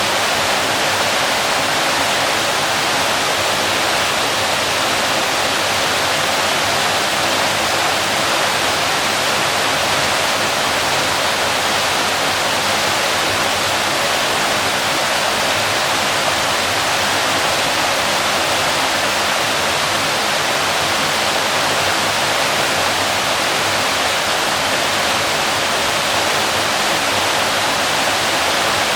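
Waterfall pouring steadily, a constant dense rush of falling water with no breaks.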